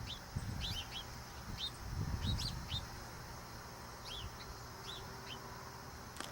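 Small birds chirping in short, high, downward-slurred notes, in quick groups with a pause about three seconds in, over a low rumble.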